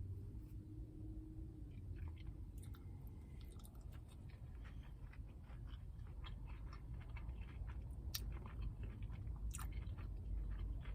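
Close-miked chewing of a crispy fried chicken sandwich, with irregular wet clicks and smacks of the mouth working the food.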